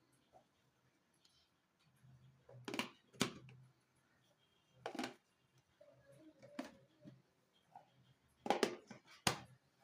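Household objects being handled: about six short, sharp knocks and clicks spread over the stretch, two close together near the end, in a quiet small room.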